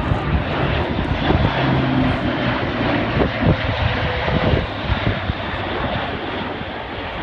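Airbus A400M's four TP400-D6 turboprop engines running at take-off power: a loud, dense engine and propeller noise with a low steady hum in it, easing off slowly over the last few seconds.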